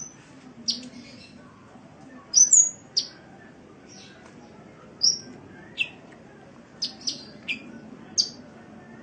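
Sunbird (Indonesian 'kolibri') calling: about a dozen short, sharp, high-pitched chirps at irregular intervals, some with a quick upward flick.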